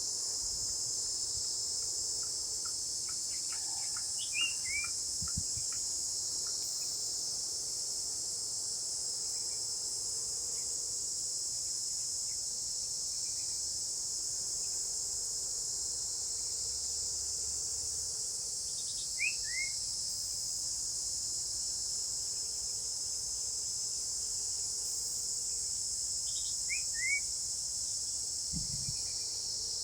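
Steady, high-pitched chorus of insects running throughout, with a few short falling bird chirps breaking in three times: about four seconds in, near the middle, and near the end.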